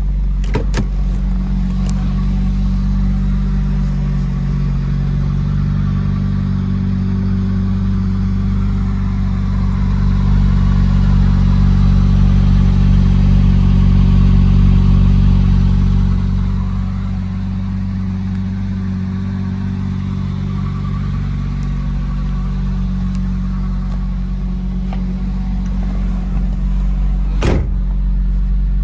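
A 2002 Porsche Boxster S's 3.2-litre flat-six idles steadily after a cold start. It runs a little louder for several seconds midway, then settles back. There is a single sharp click near the end.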